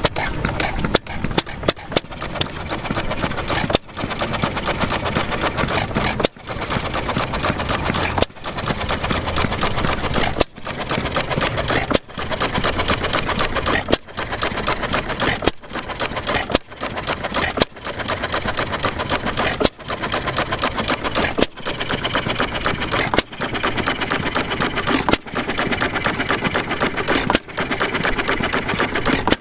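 Antique gas engine running with a fast, even mechanical clatter, the sound briefly dipping every second or two.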